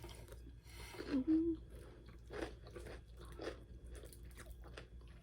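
Close-miked chewing and crunching of fried chicken, with a few sharp crunchy bites and a short hummed 'mm' about a second in.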